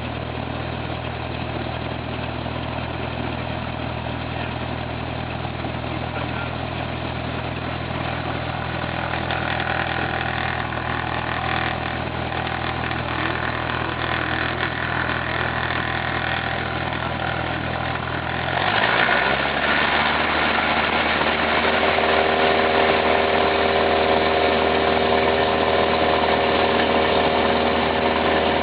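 Cessna 172's piston engine and propeller running at a steady low speed, then, about two-thirds of the way through, the throttle is opened and the engine rises in pitch over about a second to a louder, higher steady speed.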